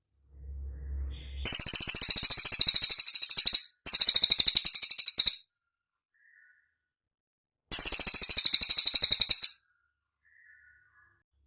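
Cililin bird singing: three very high, rapid buzzing trills, each one and a half to two seconds long, the first two back to back. A faint low rumble comes just before the first trill.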